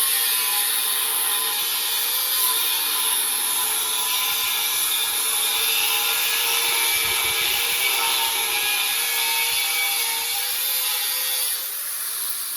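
Angle grinder with a cutoff wheel cutting through the steel transmission mount, a steady high whine with a hiss. Near the end the trigger is released and the wheel starts to wind down.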